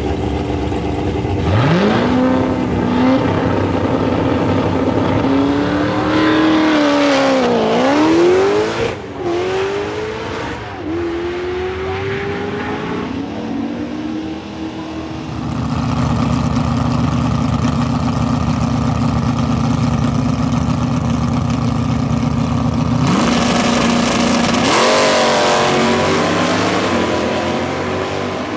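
Car engines running hard and revving, the pitch climbing, dipping and climbing again several times, with a long stretch held at steady revs in the middle.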